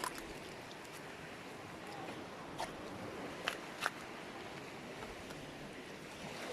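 Steady wash of sea surf on a stony shore, with a few brief sharp clicks, three of them close together in the middle.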